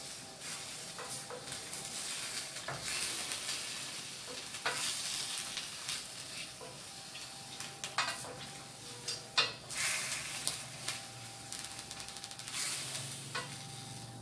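Shrimp sizzling in a hot stainless steel pan as a wooden spatula stirs them, with a steady sizzle and, now and then, a scrape or knock of the spatula against the pan; the sharpest knock comes about nine seconds in.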